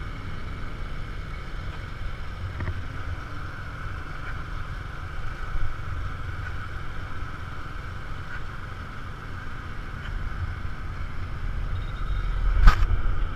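Steady rumble of busy city street traffic, with a sharp knock or click near the end.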